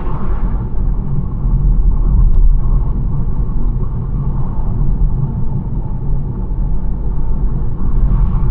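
BMW 1 Series driving at a steady pace: a continuous low rumble of engine and tyres on the road, with a brief rise in road hiss near the end.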